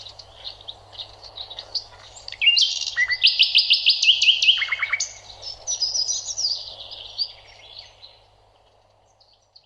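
Small birds chirping and singing in quick high notes and rapid trills, loudest midway and fading out shortly before the end, over a faint steady low hum.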